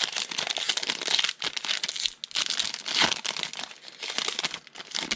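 Foil wrapper of a trading card pack crinkling as it is torn open and handled, a dense crackle that stops suddenly at the end.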